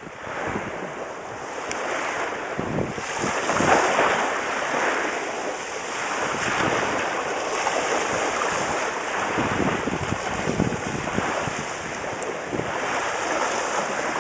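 Small waves washing on the shore with wind buffeting the microphone; the rush of water swells and eases every few seconds.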